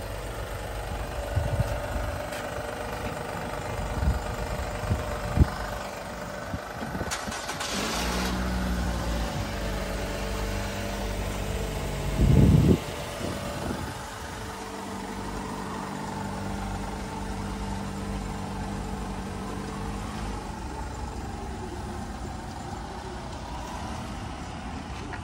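Car engine running at idle close by, a steady hum, with a few sharp knocks early on and one louder low thump about twelve seconds in.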